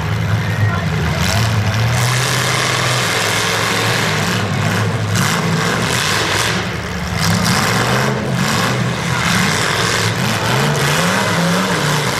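Demolition derby car engines running and revving, their pitch rising and falling over a dense, steady noise.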